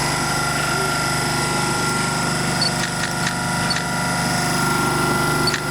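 A steady mechanical drone with a fast, even rattling pulse, with a few short clicks around the middle and near the end.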